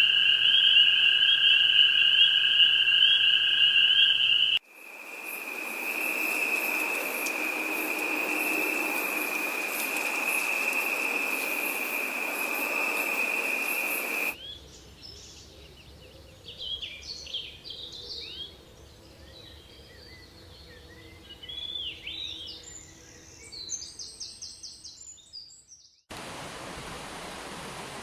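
A sequence of natural ambient recordings: first a loud steady chorus of trilling calls, then after a sudden cut another steady high-pitched chorus over a hiss. About 14 seconds in, quieter scattered bird chirps take over, and near the end an even rushing stream cuts in.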